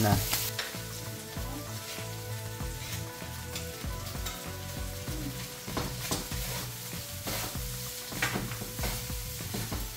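Spam slices sizzling in hot oil as they fry crispy, alongside garlic fried rice in a wok. Wooden spatulas stir and scrape the pans now and then.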